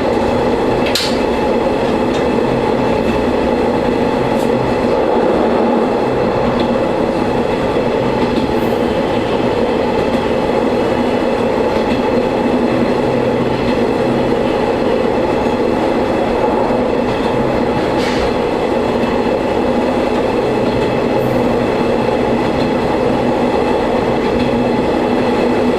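Diesel railcar running along the line, heard from inside the car: a steady engine hum with the rumble of wheels on rail. Two sharp clicks stand out, about a second in and again about eighteen seconds in.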